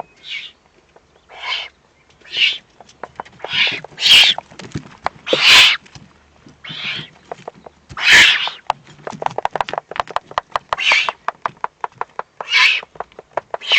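Eurasian eagle-owl chicks giving hoarse, hissing begging calls about once a second while being fed. Between the calls there are many sharp clicks and knocks, a quick run of them in the second half.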